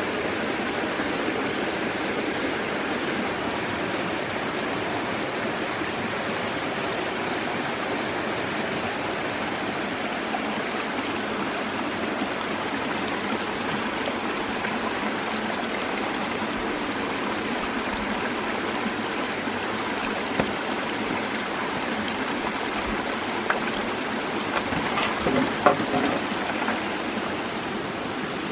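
A steady rushing noise like running water, with a few short clicks and knocks near the end.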